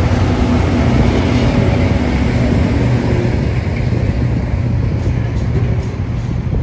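TasRail TR-class diesel-electric locomotive passing close by with its engine running loud. As it goes, the sound gives way to the steady rolling noise of container wagons' wheels on the rails.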